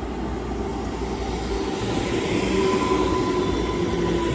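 Class 230 train (converted London Underground D78 stock) running into the platform: a steady whine and wheel rumble that grow louder about two seconds in.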